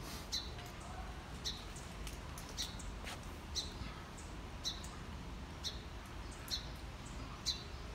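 A bird chirping: a short, high note repeating evenly about once a second, over a low steady rumble.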